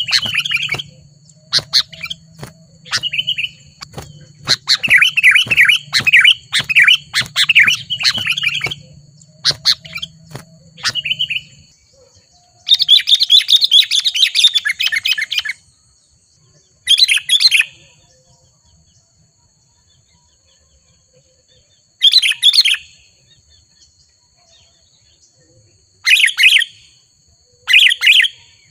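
Sooty-headed bulbuls calling: rapid runs of chirpy, chattering phrases for about the first eleven seconds, then louder bursts of calls a few seconds apart with quiet gaps between them.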